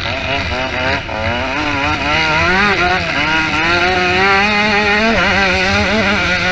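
Motocross motorcycle engines running hard, the revs rising and falling over and over, about every half second, over a steadier lower engine note.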